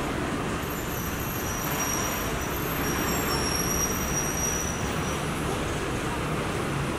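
Steady street traffic noise with vehicle engines running, and a faint thin high-pitched squeal from about one second in until about six seconds in.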